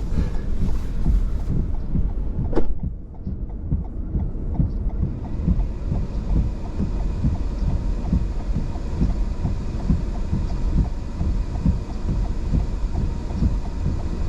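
Strong wind buffeting the microphone in a deep, steady rumble with quick throbbing gusts. A sharp knock comes about two and a half seconds in, after which the high hiss drops away.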